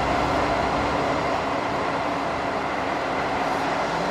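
Steady, continuous noise of passing vehicles, an even rumble that holds level throughout.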